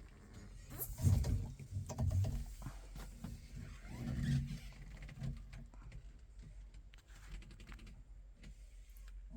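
AGCO-Allis tractor engine running, with a steady low hum that swells unevenly about a second in, two seconds in and again around four seconds, and scattered light clicks.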